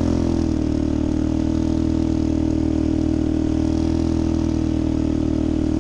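A steady mechanical drone from an engine or motor running at a constant speed, with an even pitch and a slight regular pulse. It starts abruptly.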